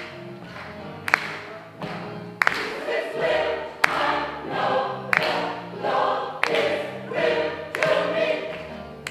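Gospel choir singing in chords, growing fuller after the first couple of seconds, over a sharp, steady beat struck about every second and a third.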